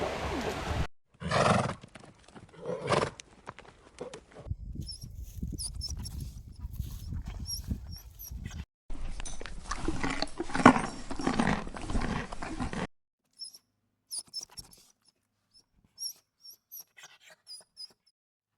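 A string of short animal clips cut one after another: assorted animal calls and vocal sounds, with repeated short high chirps through the second half.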